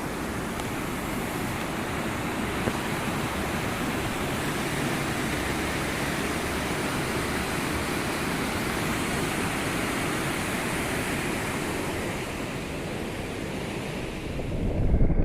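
Steady rushing noise of wind and rain on the microphone of a motorcycle ridden through monsoon rain. A louder low rumble builds up near the end.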